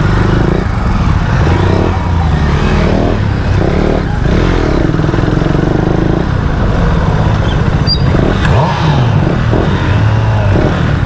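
Motorcycle engines running on a group ride, with an engine note gliding in pitch about eight and a half seconds in.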